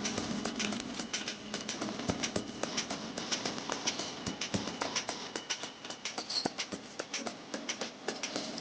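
Rapid, irregular light taps and clicks, several a second.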